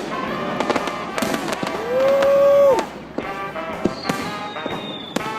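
Consumer fireworks going off: a rapid series of sharp cracks and bangs, with a loud held note about two seconds in and a thin high whistle sliding down slightly near four seconds in. A pop song plays underneath.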